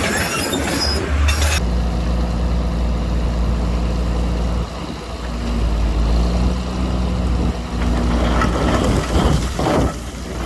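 Diesel engine of heavy earthmoving machinery running steadily under load. A loud noisy rush in the first second and a half cuts off abruptly, and uneven crackling comes in near the end.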